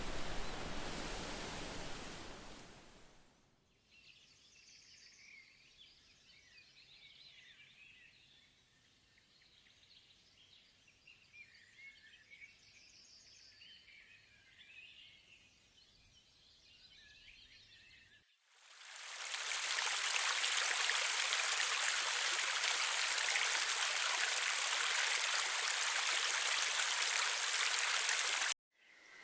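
Loud rushing water fading out over the first few seconds. Then a long quiet stretch with faint high chirping and trilling. Then loud, steady rushing water starts about two-thirds of the way in and cuts off abruptly just before the end.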